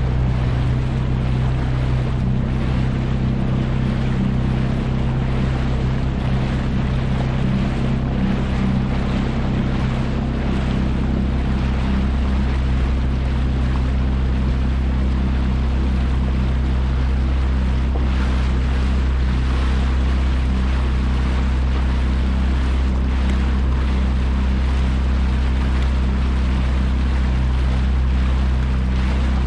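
Yamaha jet ski's engine running steadily at an even speed, with no revving, under a constant rush of water and wind on the microphone.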